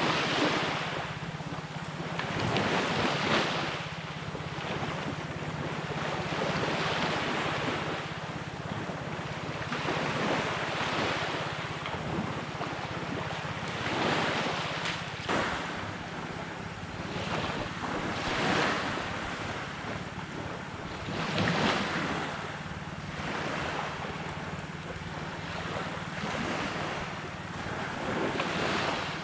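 Sea waves breaking and washing up a beach, swelling every three to four seconds, with wind buffeting the microphone. A steady low hum runs underneath.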